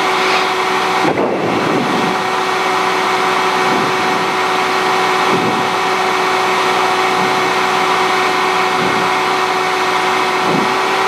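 Cessna 150's four-cylinder Continental O-200 engine and propeller running steadily, a constant drone heard from inside the cockpit on approach.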